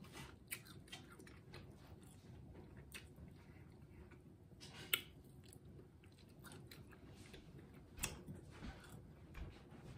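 Faint chewing and mouth smacks of someone eating cooked duck, with scattered small clicks; two sharper clicks come about five and eight seconds in.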